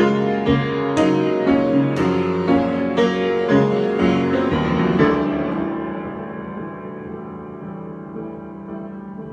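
Solo piano improvisation: notes and chords struck at a steady pace of about two a second, then about five seconds in the playing softens into held notes that fade, with a few quiet notes near the end.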